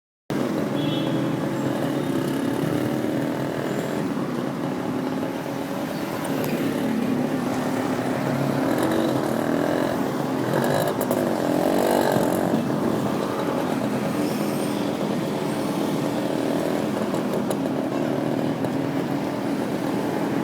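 Motorcycle taxi engine running under way, its pitch rising and falling around the middle as it speeds up and slows.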